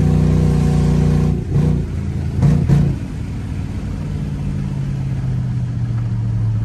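Car engine heard from inside the cabin while driving: a steady note, a few quick surges between about one and three seconds in, then a lower steady note that slowly climbs.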